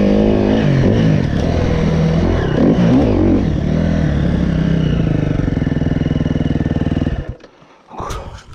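KTM 350 SX-F motocross bike's single-cylinder four-stroke engine blipping up and down, then settling into a steady, evenly pulsing idle. It cuts off about seven seconds in, and a few faint clicks and knocks follow.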